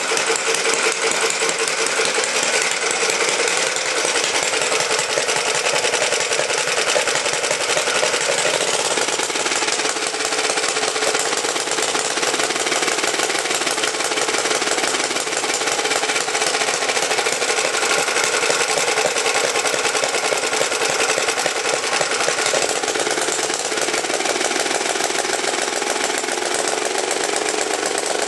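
Antique Clinton single-cylinder, air-cooled engine of about one horsepower running fast and continuously, a rapid, even rattle of firing strokes. It is running on two-year-old gas, which the owner thinks could be part of why it was hard to start.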